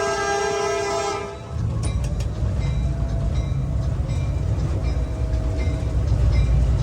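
Locomotive horn blowing a steady blast, heard from the cab, that cuts off about a second in; then the locomotive's engine running with a steady low rumble.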